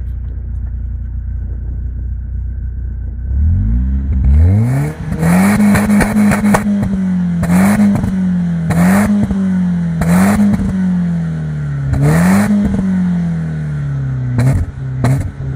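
BMW 316i Compact's M43B16 1.6-litre inline-four running through a Remus aftermarket exhaust: it idles steadily for about three and a half seconds, then is revved up and held with repeated throttle blips, the revs sagging a little between each.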